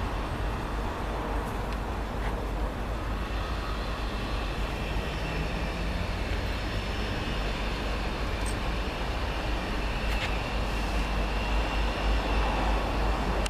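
A train running through the station: a steady rumble and rush of wheels on rail.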